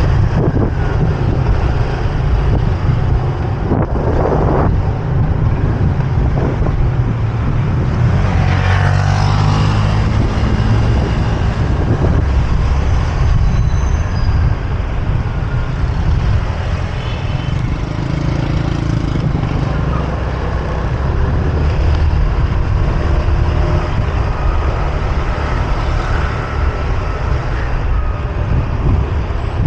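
Motorbike ride through city traffic: a steady low rumble of engine, road and wind, with other vehicles passing, one swelling louder about nine seconds in.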